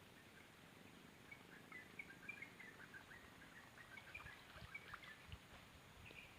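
Faint, quick bird chirps in many short notes, starting about a second in, over a quiet background.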